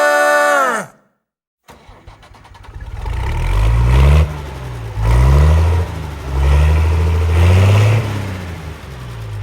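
A song's last chord fades out about a second in. After a short gap an engine comes up and revs up and down several times, its pitch climbing and dropping.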